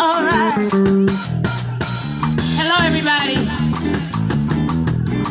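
Live band playing an upbeat number: a steady drum-kit beat with bass and guitar, and a lead voice holding long wavering vibrato notes.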